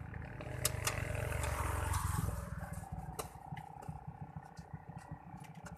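A car's starter struggling on a flat battery: a low, rapid chattering buzz that is strongest for the first two seconds, then carries on weaker, with a few sharp clicks. The battery is too weak to crank the engine over.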